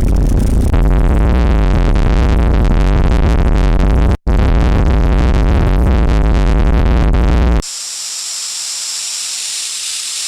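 Synthesizer sounds from the Caustic 3 app: a loud, dense, bass-heavy buzzing tone that cuts out for a split second about four seconds in, then switches after about seven and a half seconds to a quieter, steady high hiss.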